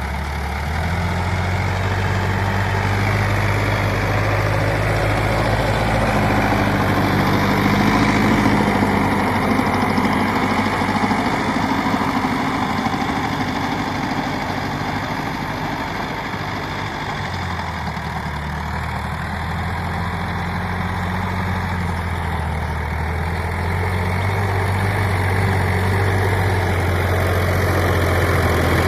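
Sonalika DI 50 RX tractor's diesel engine running steadily, its speed dropping slightly about two-thirds of the way through.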